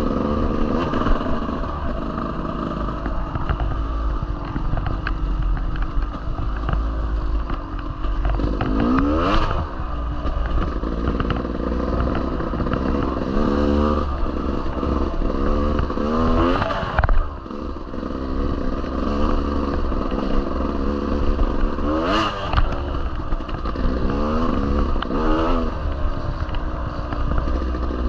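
Dirt bike engine pulling along a trail, the revs climbing and falling back again and again as the throttle is worked, with a short drop off the throttle about two-thirds of the way in. A steady low rumble of wind and rattling from the bike runs underneath.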